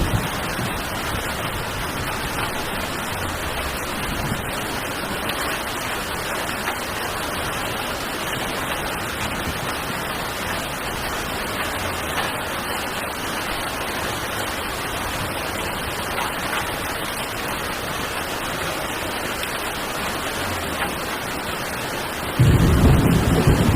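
Heavy rain falling steadily. Near the end a loud low rumble sets in over it.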